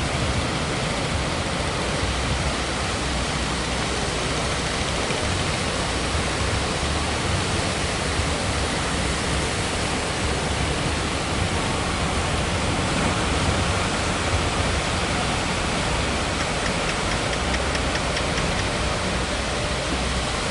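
Ocean surf breaking continuously, a steady even rush of heavy waves with a low rumble underneath.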